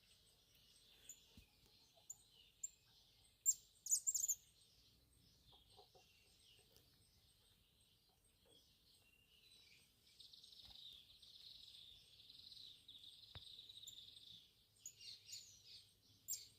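Birds chirping faintly, with a few sharp, louder chirps about three and a half to four and a half seconds in, and a denser run of chirping from about ten to fourteen seconds in.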